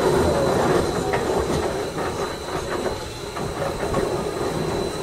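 Gornergratbahn electric rack-railway train running, heard from on board, its wheels clicking over the track.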